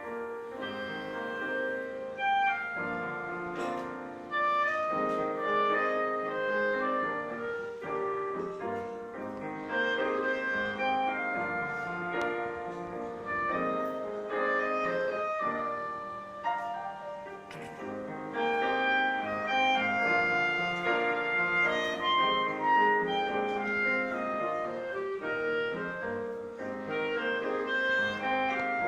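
Clarinet and piano duo playing a melody: the clarinet holds long melodic notes over piano chords.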